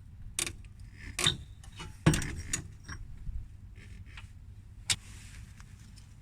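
Hand work on a Suzuki Colleda two-stroke moped engine during cylinder removal: a few separate metallic clicks and knocks of parts and tools, the loudest about two seconds in with a short scrape after it.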